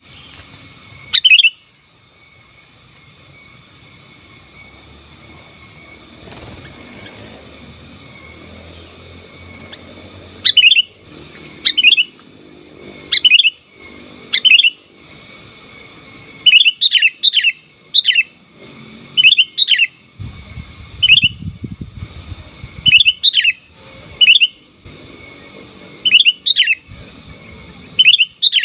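Sooty-headed bulbul (kutilang) singing: short, loud phrases of quickly rising and falling notes. One phrase comes about a second in, then after a pause of about nine seconds the phrases follow every second or so.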